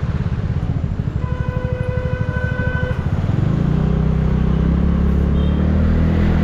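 TVS Ntorq scooter's single-cylinder engine putting along at low revs with a pulsing beat, then picking up and climbing slowly in pitch from about three and a half seconds in as it pulls away. A vehicle horn blows one steady note for about two seconds, starting about a second in.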